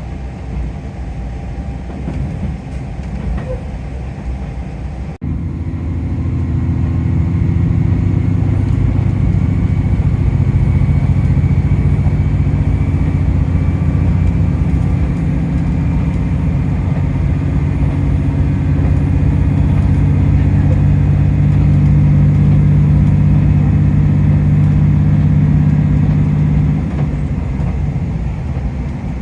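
Diesel engine of a JR Shikoku 2000 series tilting railcar running under power, with rail rumble. About five seconds in the sound breaks off abruptly and comes back louder as a steady low engine drone.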